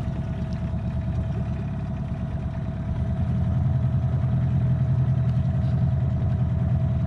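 Boat motor running with a steady low hum that grows louder about three seconds in.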